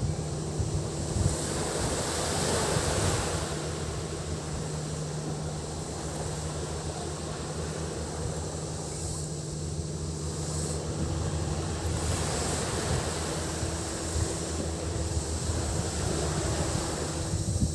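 Sea waves washing onto the beach, the wash swelling about two seconds in and again about twelve seconds in, with cicadas buzzing steadily behind and a steady low hum underneath.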